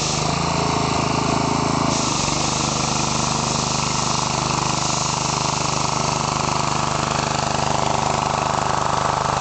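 Gas-engine pressure washer running steadily, the engine hum under the hiss of the water spray. The tone shifts for the first couple of seconds, then settles.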